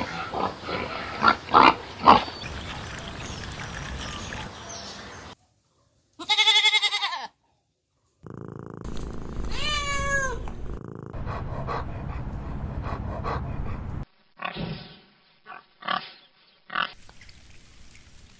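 A run of animal calls. Pig grunts come in the first two seconds. In the middle a cat meows, its pitch bending. Near the end a red fox gives a few short sharp calls.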